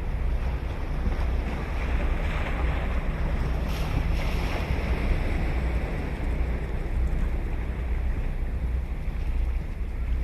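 Ocean waves breaking and washing up the beach, one wave cresting about four seconds in, with wind buffeting the microphone as a steady low rumble.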